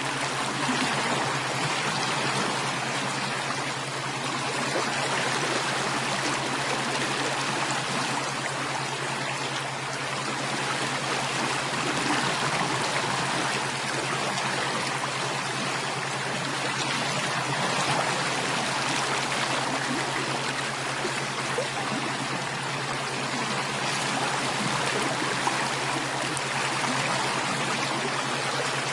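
Steady rushing of running water, like a flowing stream, even and unbroken throughout, with a steady low hum beneath it.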